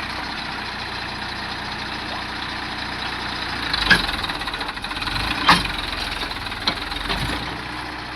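John Deere tractor's diesel engine running steadily, with a few sharp knocks or clanks about four and five and a half seconds in.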